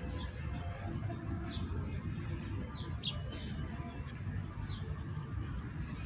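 Small birds chirping: short, high, falling chirps roughly once a second over a steady low rumble.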